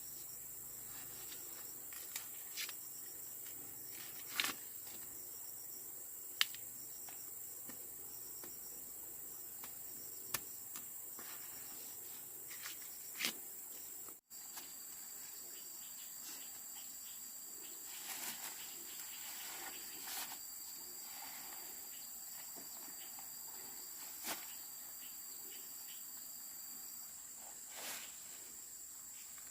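Steady high-pitched insect drone, with scattered soft clicks and knocks. The sound cuts out for a moment about halfway through.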